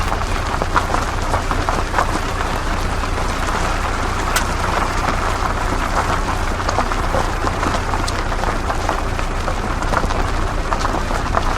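Off-road 4x4 vehicle driving over dirt and loose ground: a steady low engine rumble under a continuous crackle of tyres on gravel and stones, with scattered sharp ticks.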